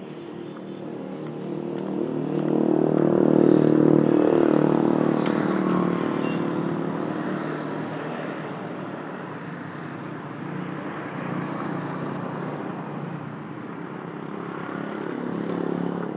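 A motor vehicle engine running close by, growing louder to a peak about four seconds in and then fading, with a second swell near the end.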